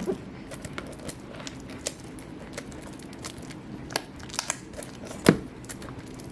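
Plastic wrapping on a trading-card booster box crinkling as it is picked at and torn open. Scattered light clicks run through it, with one sharper click about five seconds in.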